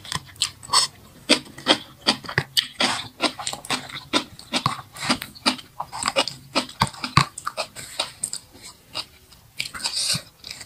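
A person chewing napa cabbage kimchi close to the microphone: wet, crunchy chewing with lip smacks, an irregular run of sharp clicks and crackles with brief pauses.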